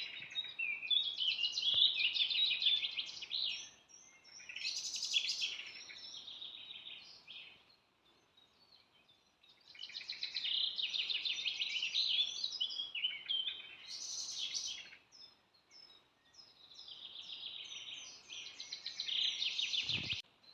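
A songbird singing in phrases of rapid chirping and trilling notes, each a few seconds long, with short pauses between them.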